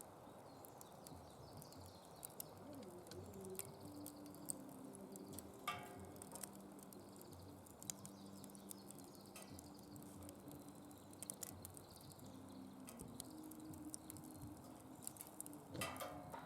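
Wood fire crackling in a fire pit: scattered sharp pops and ticks over a faint hiss, with one louder crack about six seconds in and a burst of pops near the end.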